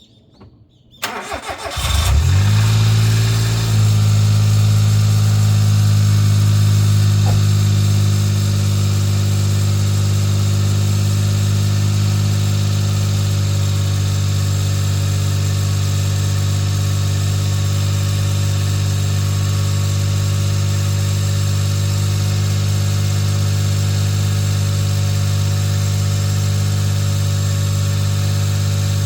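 Suzuki Jimny JB23's 660 cc three-cylinder turbo engine cranked for about a second, catching quickly and settling into a steady idle, started up on freshly changed spark plugs.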